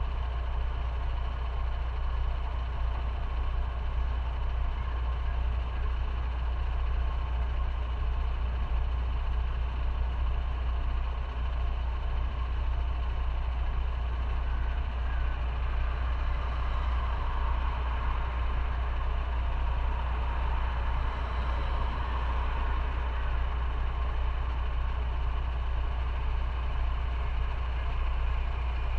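Motorcycle engine running steadily with a constant low hum, with a slight swell of other traffic about two-thirds of the way through.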